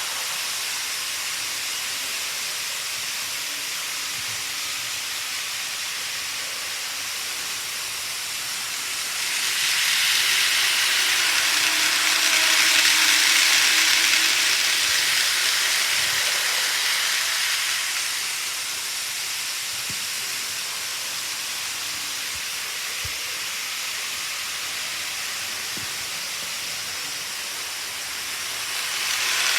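A model train, a JR West 221 series model, running on the layout's track with a steady rolling hiss. It grows louder about a third of the way in and fades back after several seconds as it passes close by.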